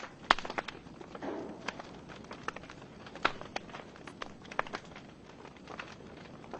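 Log fire in a fireplace crackling, with irregular sharp pops of burning wood, the loudest about a third of a second in.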